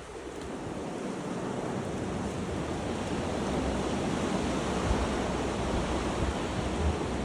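Strong gusty wind rushing outdoors, building over the first couple of seconds and then holding, with low rumbling buffets of wind on the microphone.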